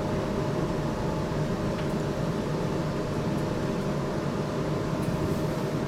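GTL8 tram under way, heard from on board: a steady rolling rumble with a constant hum over it.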